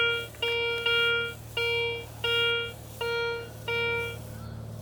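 Garrett ACE 250 metal detector giving repeated beeps of one pitch, about one and a half a second, as the coil sweeps back and forth over a buried target. The tone is the one the detector gives for a target in the penny-to-dime range. The beeps stop near the end.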